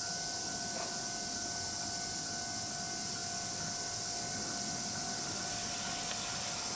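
Steady hiss with a faint, steady high whine as a JR Freight EF210 electric locomotive hauling container wagons approaches from a distance.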